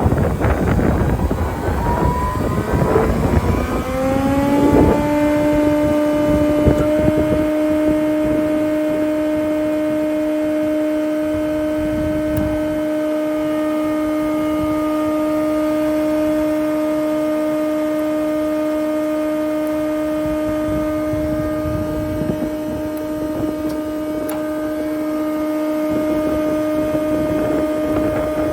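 Jaroma DSMD-63 thickness planer: its 7.5 kW main motor and 63 cm four-knife cutterhead start up, with a whine rising in pitch over the first five seconds. It then settles into a steady hum at full speed.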